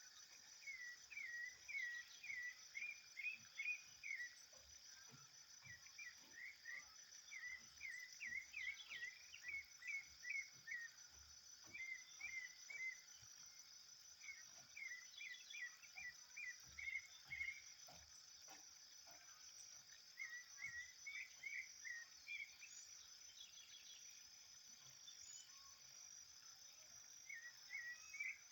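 A sabiá thrush singing in phrases of quick, short, repeated notes, with pauses of a few seconds between phrases. A steady high insect chirring runs underneath.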